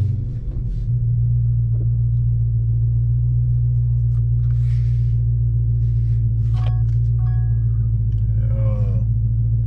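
Dodge Charger SRT Hellcat Widebody's supercharged 6.2-litre HEMI V8, just push-button started, settling from its start-up flare into a steady, deep idle within the first second. A couple of faint short tones sound about seven seconds in.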